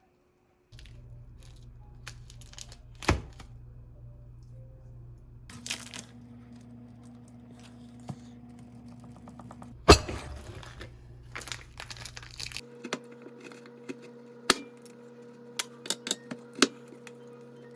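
Scattered knocks, clicks and crackles over a steady low hum, with one sharp loud knock about ten seconds in.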